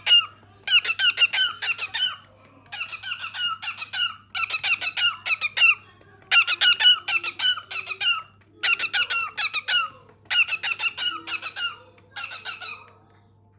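Cockatiel singing: about seven phrases of rapid, high chirping whistles, each a second or two long, separated by short pauses.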